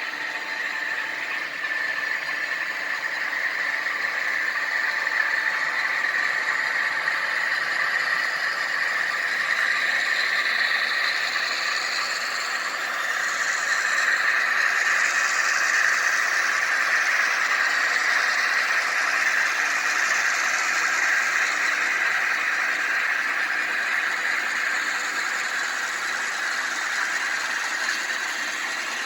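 HO scale model train running on the layout, a steady mechanical running sound that grows a little louder about a second in.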